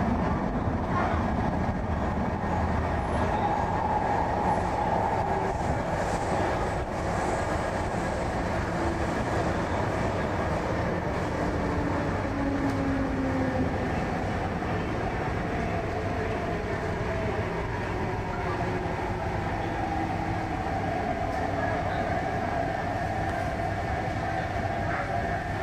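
Cabin running noise of an MTR East Rail Line Hyundai Rotem R-train in motion: a steady rumble of wheels on the rails, with a faint whine that slowly shifts in pitch.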